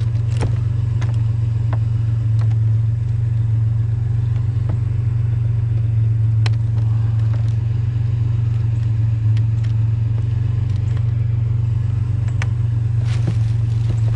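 Vehicle engine running at idle, a steady low drone, with scattered light clicks and knocks over it.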